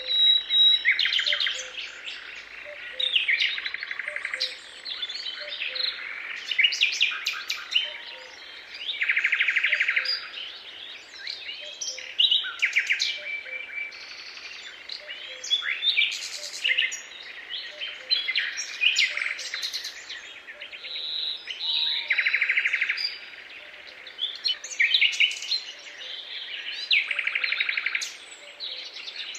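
A chorus of several songbirds singing: overlapping trills and chirps in phrases of a second or two, one after another without a break.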